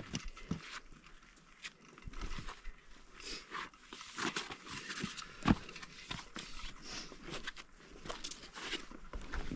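Hiker's footsteps scuffing and tapping irregularly on sandstone and grit while scrambling, with one sharper knock about five and a half seconds in.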